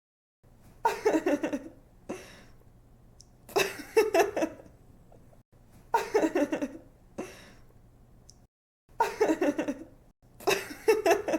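A young woman laughing in five short bursts of giggles, each a quick run of notes falling in pitch, with brief pauses between.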